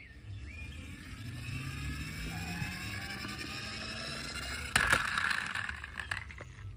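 Toy car sound: a whine rising slowly in pitch over about four seconds like a motor revving up, then a sharp knock followed by a short hiss.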